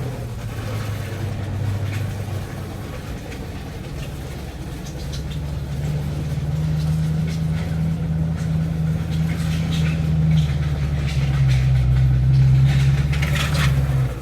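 Audi S5 engine and drivetrain under throttle, with short chirps from the drivetrain over the engine note, coming more often and loudest near the end. The chirping comes only when throttle is applied, not on deceleration; a lightweight flywheel adds chatter.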